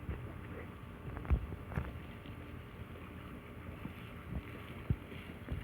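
Garden hose spray nozzle on its shower setting spraying water in a steady hiss, with a few short thumps as the dog bites at the spray.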